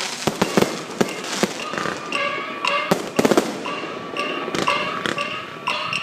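Electronic firecrackers going off in sharp, irregular bangs, with a close cluster about three seconds in, over a repeating high-pitched tune of short, slightly rising notes.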